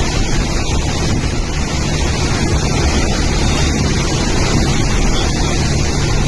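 Steady, loud rushing of storm wind with wind buffeting the microphone, heaviest in the low rumble.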